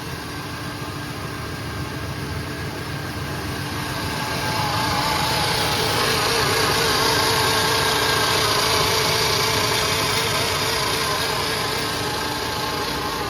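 Car engine idling steadily; it grows louder about four seconds in, then eases off a little near the end.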